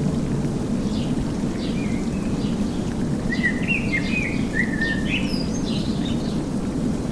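Birds singing short chirping phrases, busiest in the middle, over a steady low rumbling noise like rain or soft background noise.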